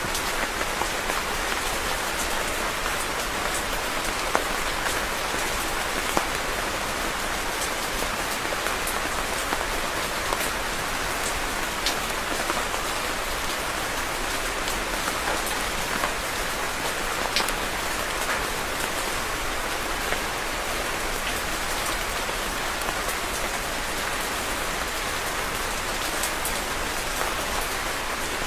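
Steady rain falling, an even hiss with individual drops ticking sharply against a surface here and there.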